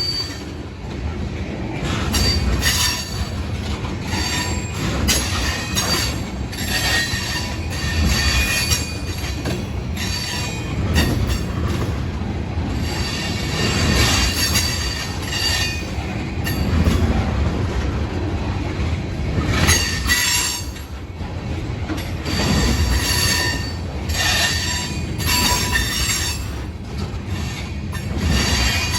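Freight train of tank cars rolling past with a steady low rumble, its wheels squealing in high thin tones that come and go.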